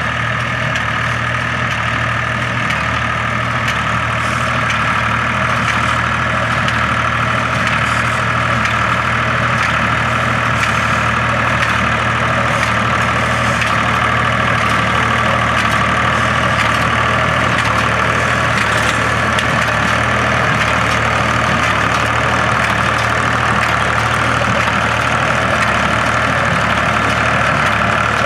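Case IH 485 tractor's diesel engine running steadily while driving an IH 440 square baler through hay, with faint clicks from the baler at even intervals.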